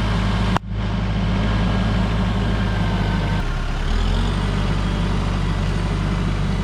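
A heavy engine running steadily. A sudden break about half a second in sounds like an edit, and the engine's low tone shifts about three and a half seconds in.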